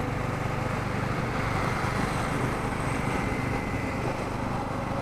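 Bajaj Pulsar N250's single-cylinder engine running at a steady pace while the bike is ridden along a highway, its low steady note mixed with an even rushing noise.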